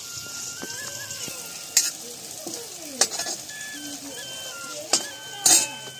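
Lentil (masoor dal) pakoras frying in hot oil in a metal wok: a steady sizzle, with a metal ladle stirring them and knocking against the pan about four times.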